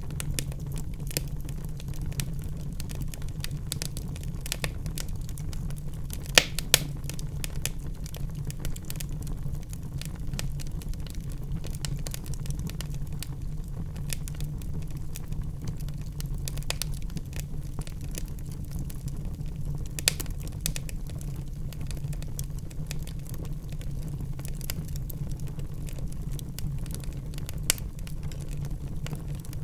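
Wood fire in a fireplace crackling, a steady low rumble of flames under scattered sharp crackles, with a few louder pops about six seconds in, around twenty seconds in and near the end.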